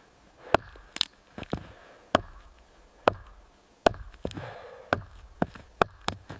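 A series of sharp chopping knocks, about a dozen, coming at uneven intervals.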